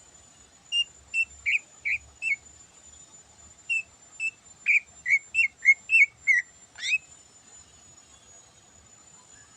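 Greater green leafbird (cucak ijo) singing in short, loud whistled notes: a run of five, a pause, then a quicker run of about nine that ends in a sharp upward sweep about seven seconds in.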